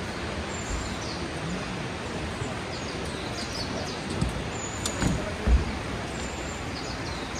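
Small birds chirping in short high calls over a steady outdoor rush of noise, with a few brief low thumps around the middle.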